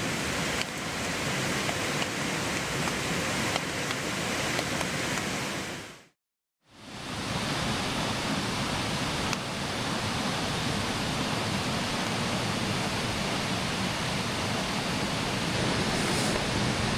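Mountain creek water rushing steadily. It fades out to silence for a moment about six seconds in, then comes back up the same.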